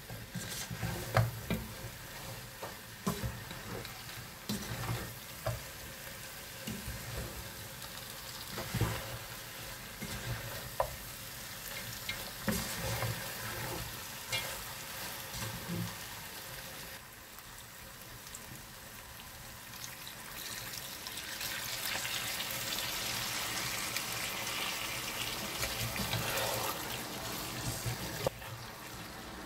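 Wooden spoon stirring and scraping chunks of lamb curry in a granite-coated pot while the spiced meat sizzles. There are irregular knocks and scrapes in the first half, and the sizzle grows louder and steadier about two-thirds of the way through.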